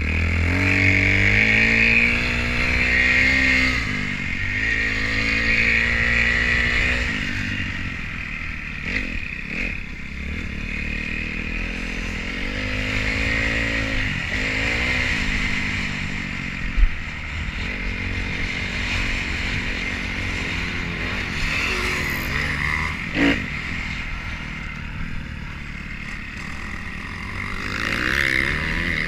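2012 Kawasaki KX250F dirt bike's four-stroke single engine, heard from on the bike, revving up and easing off again and again as it rides, with a couple of sharp knocks. The crankshaft was binding on this ride, which the rider first took for new ECU mapping.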